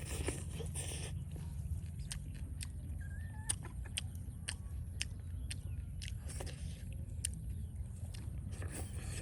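Scattered sharp clicks and crunches of someone eating, over a steady low rumble.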